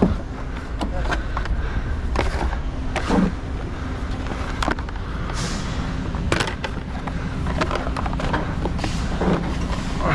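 Scattered knocks and clatter over the steady low hum of an idling engine.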